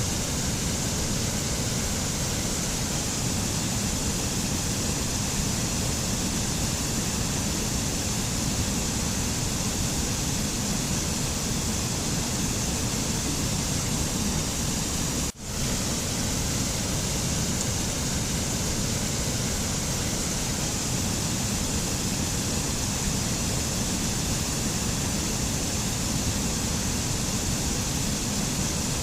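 Steady rushing noise of a mountain nature-sound recording, with no music or tones, that drops out for an instant about halfway through.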